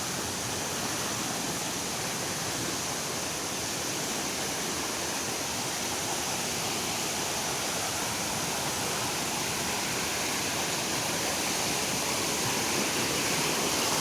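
Waterfall rushing: a steady wash of falling water that grows slightly louder toward the end.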